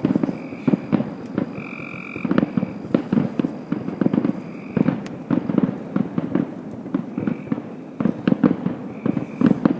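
Fireworks going off in rapid, irregular bangs and crackles, with a bullfrog croaking among them.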